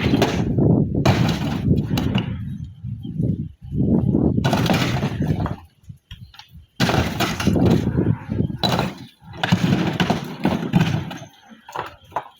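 Loose natural stones clattering and scraping against each other, in rough stretches of a second or two with short pauses.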